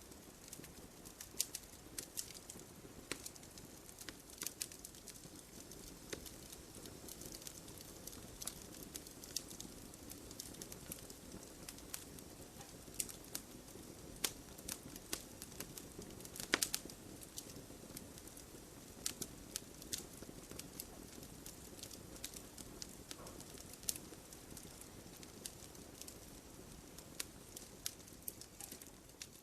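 Wood logs burning in a fireplace: irregular sharp crackles and pops over the soft steady hiss of the flames, with one louder pop about halfway through.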